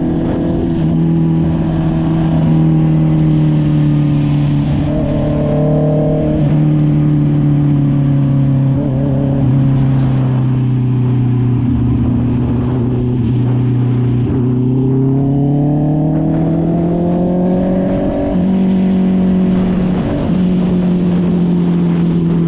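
Honda CB650R's inline-four engine through an SC Project aftermarket exhaust, running at steady riding revs. Its pitch sinks slowly, then climbs again for the last several seconds, with two short breaks in the note late on.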